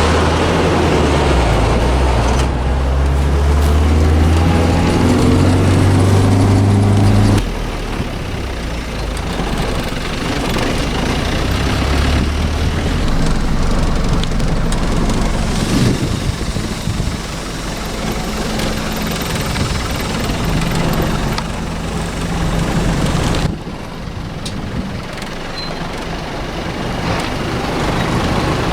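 Vehicle engine running while being driven, with a strong steady engine note that drops away suddenly about seven seconds in, leaving a quieter, rougher engine and road noise.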